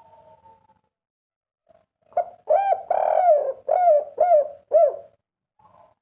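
Spotted dove cooing: one loud phrase of about six notes, a longer drawn-out note near the middle followed by three short arched notes, about two seconds in. A softer coo comes just at the start.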